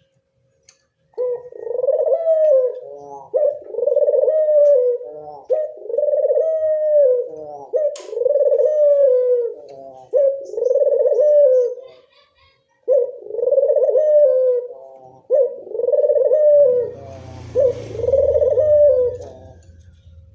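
Local puter dove cooing over and over as a lure call, about nine rolling coos each lasting a second or two with short pauses between them. A low rumble joins under the last few coos.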